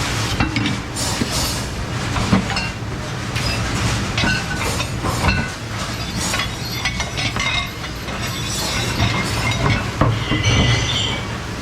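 Dishes, cutlery and racks clattering and clinking at a commercial kitchen dish station, with many irregular knocks and short ringing clinks over a steady low machine hum. A louder cluster of clinks comes near the end.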